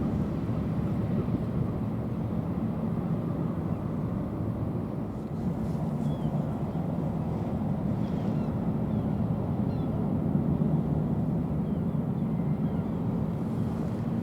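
Large car ferry's diesel engines running with a steady low rumble and hum.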